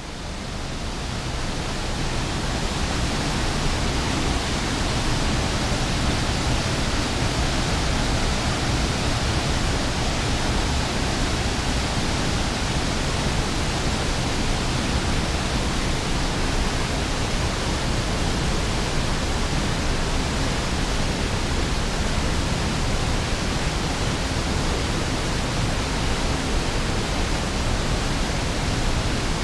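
Waterfall: a steady, loud rush of falling water that swells over the first two seconds and then holds even.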